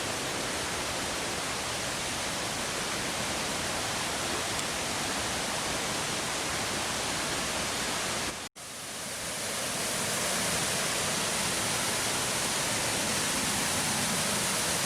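Fast-moving stream water rushing over rocks: a steady, even rush, cut by a brief silent dropout a little past halfway, after which it is slightly louder.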